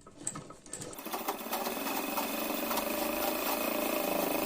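Sewing machine stitching a seam. It starts about a second in, picks up speed, and then runs steadily with fast needle strokes.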